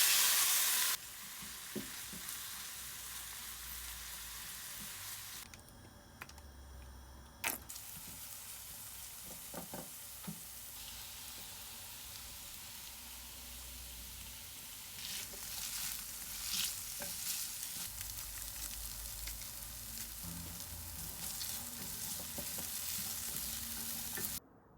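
Food sizzling in a hot frying pan while it is stirred and tossed with a utensil, with scattered clicks and scrapes against the pan. There is a loud burst of sizzling at the very start.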